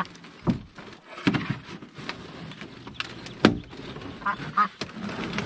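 Ducks quacking, with a few sharp knocks and clatter mixed in.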